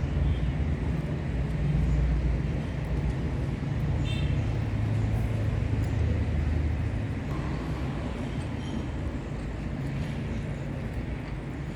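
Steady low rumbling background noise, with a few faint, brief high chirps about four seconds in and again near nine seconds.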